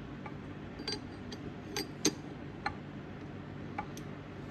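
Scattered light metallic clicks and clinks, about five of them, from steel transmission parts being handled while the 3/4 shift fork of a Ford toploader four-speed is fitted.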